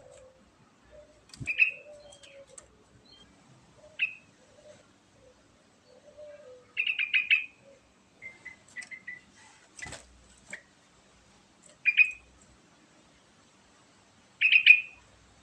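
Yellow-vented bulbul (trucukan) singing short phrases every two to three seconds, some as quick runs of several notes. A sharp click sounds about a second in and again near the middle.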